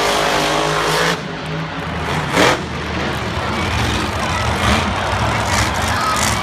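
Monster truck engines running loud and revving over a dense roar, with a short sharp burst about two and a half seconds in.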